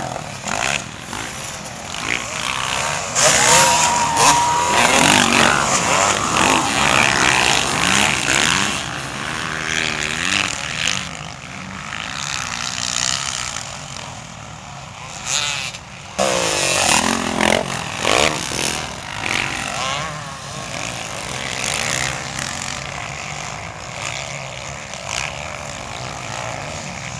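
Motocross dirt bikes racing past, engines revving up and falling back through the gears, with louder passes by the track a few seconds in and again about two-thirds of the way through.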